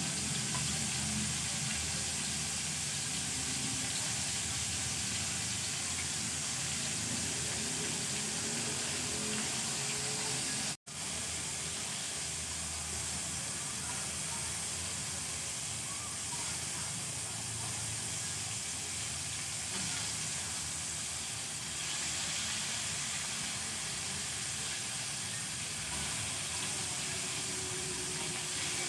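Hot oil sizzling steadily as battered food deep-fries, with a brief cut about eleven seconds in.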